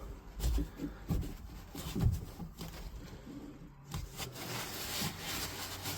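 Faint handling sounds of the isolation valves on a heat-pump magnetic filter being turned open: a few small knocks and rubs, then a faint steady hiss from about four seconds in.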